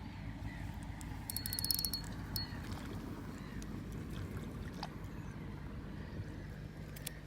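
Steady low rumble of wind and water around a small fishing boat, with a brief run of rapid high clicks about a second and a half in and a few scattered ticks.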